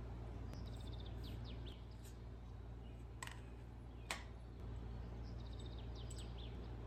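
A bird singing a short phrase twice, each a quick run of high notes ending in a few sliding ones, over a steady low hum. Two sharp clicks come between the phrases.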